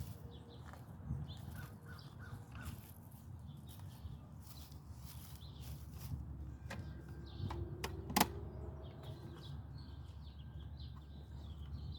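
Wire suet cage being handled and filled, with a few sharp metal clicks about seven and eight seconds in as it is worked shut. Birds call faintly in the background.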